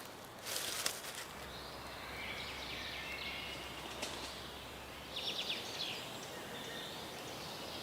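Forest ambience with small birds chirping, including a quick trill about five seconds in, after a short rustle near the start.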